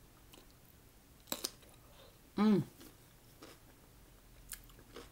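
Close-up eating sounds: a sharp crunch about a second and a half in, typical of a bite into a raw cucumber slice, then a short falling "mm" hum about halfway, with small wet mouth clicks and chewing between.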